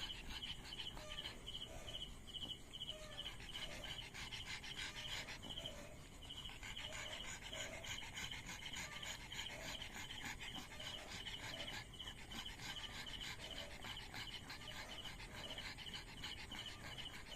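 Insects chirping in a steady quick rhythm, about four short high chirps a second, with a dog panting softly.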